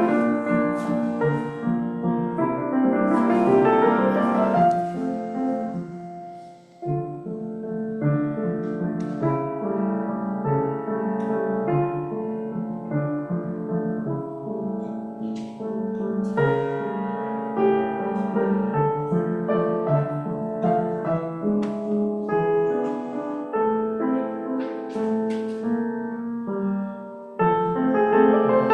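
Solo piano playing a slow piece of many sustained notes, dropping away briefly about seven seconds in before carrying on.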